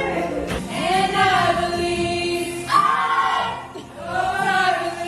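A group of voices singing a pop song together karaoke-style, in phrases of long held notes.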